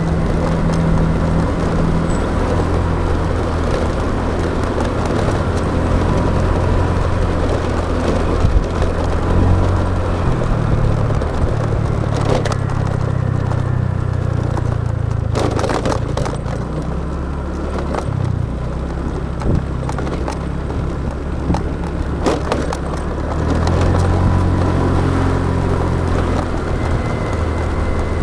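Motorbike engine running on the move through traffic, its pitch shifting with speed; it eases off for several seconds in the middle and picks up again near the end. A cluster of sharp clicks and knocks comes around the middle.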